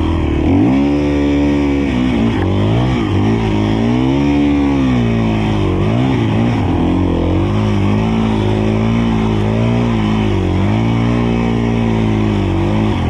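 Enduro dirt bike engine revving up and down under the rider's throttle, its pitch climbing sharply about half a second in and then rising and falling repeatedly.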